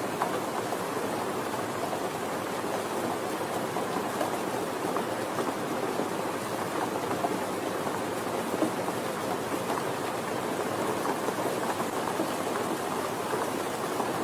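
Steady rain falling, a dense patter of drops with no break or change.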